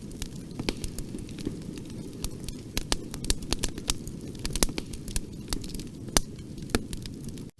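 Wood fire crackling in a fireplace: irregular sharp pops and snaps over a steady low rumble of burning. The sound cuts out for an instant near the end.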